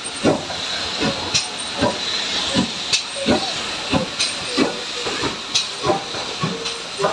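Steam locomotive working slowly, with regular chuffs about one and a half a second over a steady hiss of steam, and a few sharp clicks.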